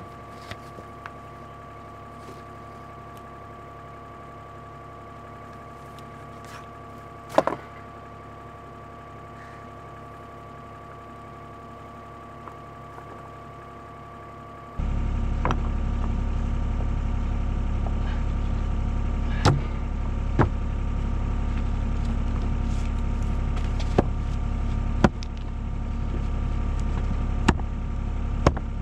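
Excavator's diesel engine running steadily, with a few sharp clicks. About halfway the sound jumps abruptly louder and deeper, with occasional knocks.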